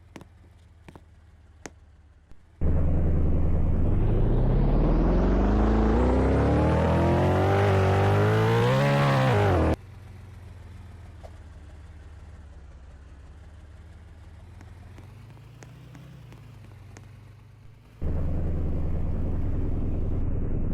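An engine revving up, its pitch climbing steadily for about seven seconds, then cut off abruptly. Quieter steady noise follows, and about 18 seconds in a loud steady low rumble starts suddenly.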